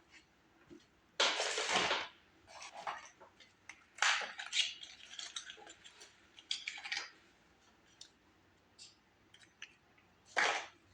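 Metal tools and parts clinking and being handled, in irregular clicks and short scraping bursts, a few louder handling noises among them.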